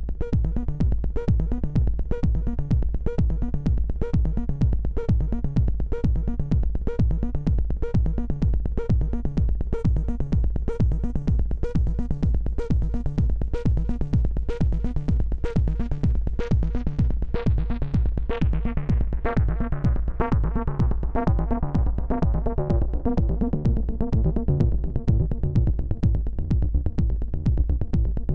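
Eowave Weather Drones 1.5 Eurorack synth voice playing folded triangle-wave tones over a fast, steady techno drum beat with a constant deep bass. The treble fades out in the middle, and the sound turns darker.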